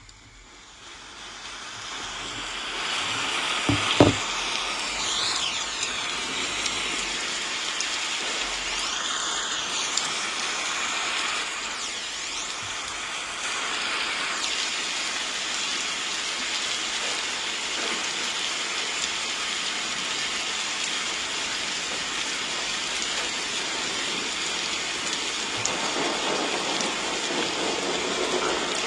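Steady rain ambience that fades in over the first few seconds, with a single sharp tap about four seconds in.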